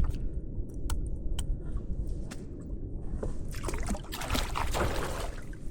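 Water sloshing and splashing against a kayak over a steady low rumble, with a few sharp clicks in the first half; the splashing is loudest a little past the middle.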